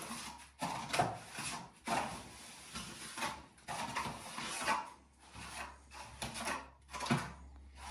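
Repeated rough scraping strokes, about one to two a second, uneven in strength.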